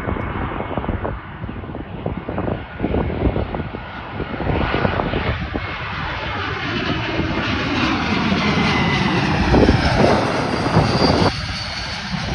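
Jet airliner passing close by, its engine roar building from about four seconds in, with slowly falling tones as it goes past, and dropping off sharply near the end. Wind buffets the microphone, in gusts most plainly early on.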